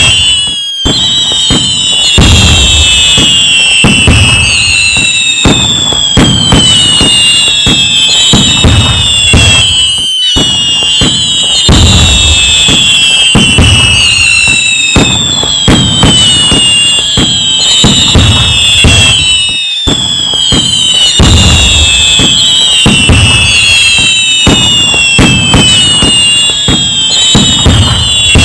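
Loud, dense fireworks: many whistling shells with pitch-gliding whistles over a continuous run of bangs and crackle. The recording repeats about every nine and a half seconds, each pass broken by a brief drop-out.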